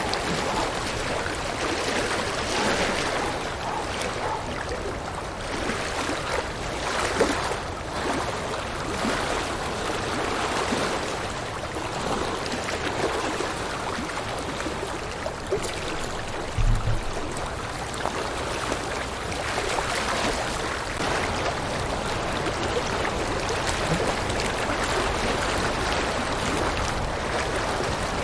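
River water rushing and splashing steadily over rocks, swelling gently now and then. A brief low thump about two-thirds of the way through.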